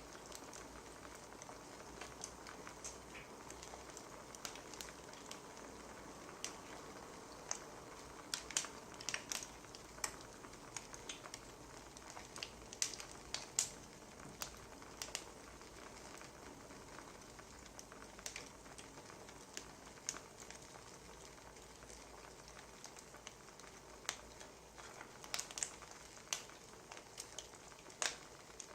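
Wood fire crackling: irregular sharp pops and snaps over a soft steady hiss, coming in thicker clusters from about eight seconds in and again near the end.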